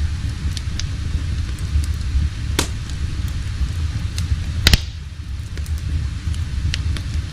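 Wood fire crackling: a steady low rumble with scattered small pops, and two louder pops about two and a half and four and a half seconds in.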